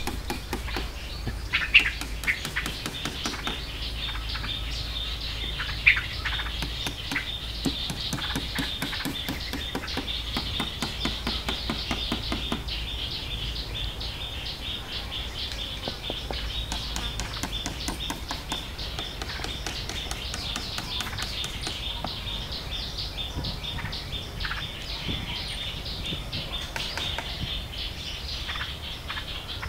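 Birds chirping in forest, with a steady high-pitched drone behind them and a couple of sharper calls in the first six seconds.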